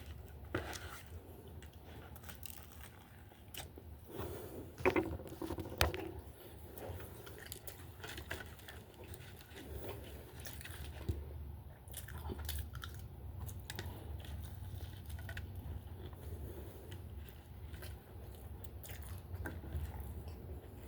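Person biting and chewing an egg sandwich close to the microphone: irregular small wet clicks and smacks over a steady low hum.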